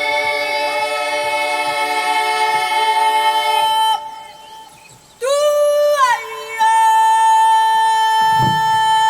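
Children's choir singing a cappella in long held chords. The first chord fades out about four seconds in; a second enters about a second later with an upward slide, breaks briefly, and is then held steady.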